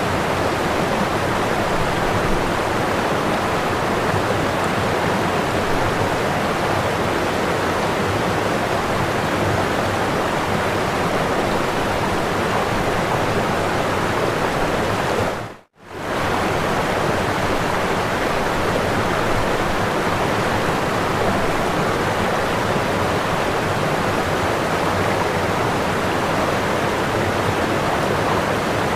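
Waterfall whitewater rushing in a steady, dense roar of water. About halfway through, the sound dips to silence for a fraction of a second and comes straight back.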